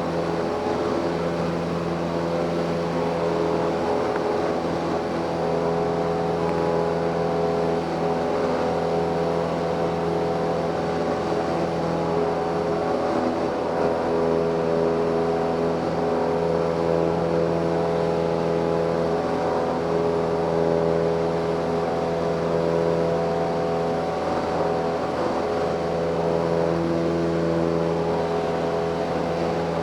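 Cessna 172M's four-cylinder Lycoming engine and propeller running steadily at climb power, a constant droning hum.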